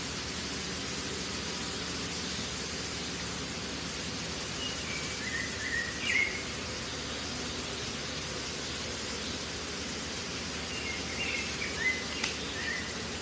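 Steady background hiss, with a small bird chirping in two short phrases of quick notes, about five seconds in and again about eleven seconds in.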